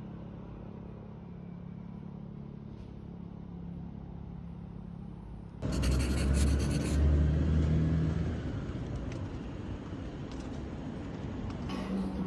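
A steady low rumble with a faint hum, then a much louder rushing noise that cuts in about five and a half seconds in and settles into a steady wash.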